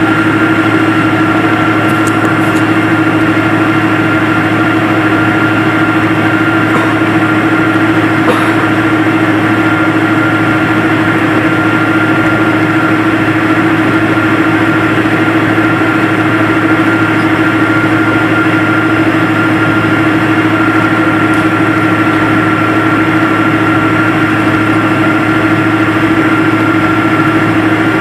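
Airliner cabin noise: jet engines running at a steady pitch, with a constant low hum and a steady whine over a rushing hiss.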